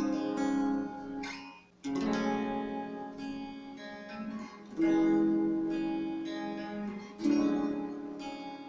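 Jolana Tornado electric guitar played on a clean amp tone: four chords, each struck and left to ring out, a couple of seconds apart.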